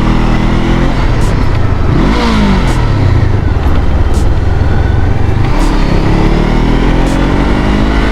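Honda CBR500R's parallel-twin engine running under way, its revs dropping and rising again a couple of times, with a rushing noise over it.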